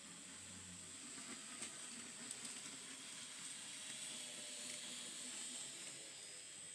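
N gauge model train running past: a faint whirring hiss that swells and fades, with a few light clicks from the wheels on the track.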